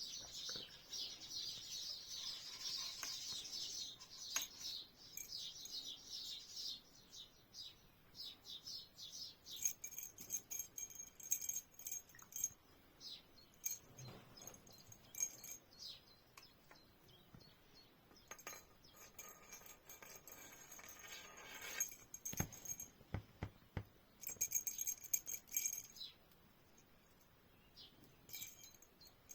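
Birds chirping rapidly for the first few seconds, then on and off small metallic jingling and light clicks.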